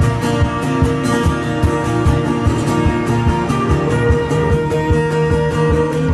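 Solo live music with no singing: a plucked guitar part over a steady low beat.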